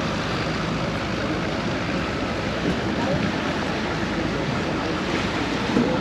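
Vaporetto water bus under way: its engine running steadily with the wash of water and wind, and indistinct passenger chatter mixed in.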